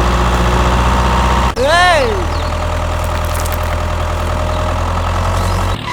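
A small tractor engine idling steadily, cutting off just before the end. About a second and a half in, a short voice cry rises and falls in pitch.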